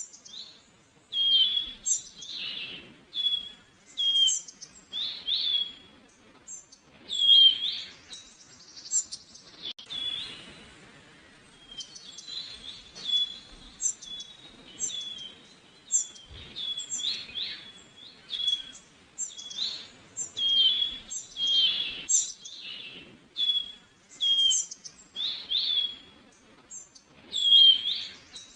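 Songbirds calling and chirping, many short high notes repeated through the whole stretch, over faint outdoor background noise.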